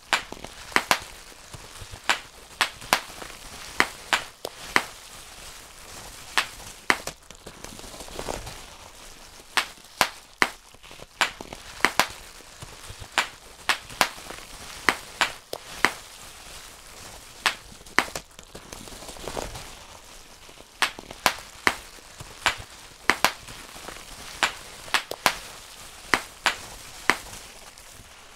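Bubble wrap bubbles being popped one after another by hand, sharp snapping pops at an uneven pace of one to three a second, with the plastic sheet crinkling between them.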